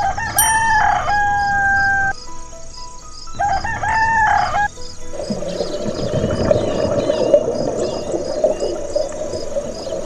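A rooster crowing twice: a first crow of about two seconds that ends in a long held note, then a shorter crow about three and a half seconds in. A steady rushing noise follows through the second half.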